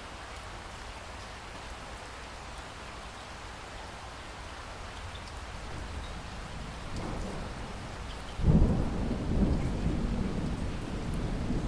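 Steady rain falling, slowly growing louder, then a loud rumble of thunder breaks in suddenly about eight seconds in and rolls on.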